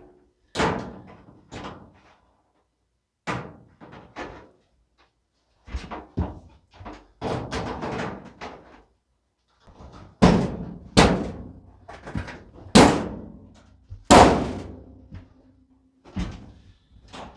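Dryer cabinet panels being handled and fitted back on during reassembly: a series of irregular clunks and bangs, the loudest run of about five heavy bangs coming between ten and fifteen seconds in.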